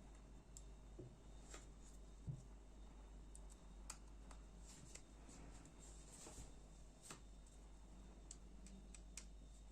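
Near silence with faint, scattered small clicks and light taps from a folding knife's parts and small screwdrivers being handled, and a soft thump about two seconds in.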